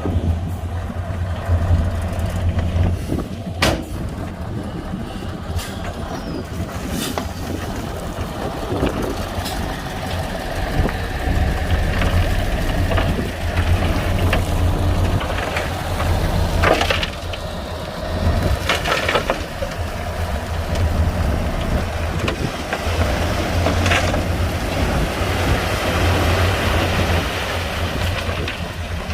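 Heavy diesel earthmoving machinery, bulldozer or dump truck, running at work. A deep steady engine rumble swells and eases, and sharp metallic clanks and knocks break in now and then.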